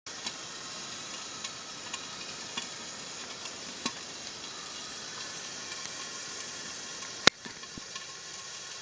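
Steady high hiss of background ambience with a few faint ticks, and one sharp click a little after seven seconds in.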